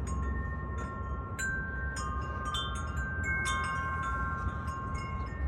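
Wind chimes ringing, with irregular struck notes that overlap and ring on for a second or more, over a low steady rumble.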